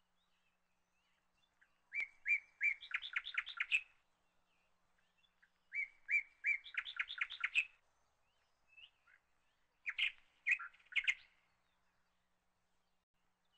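A small bird singing in three short bursts a few seconds apart, each a few separate chirps running into a quick series of notes.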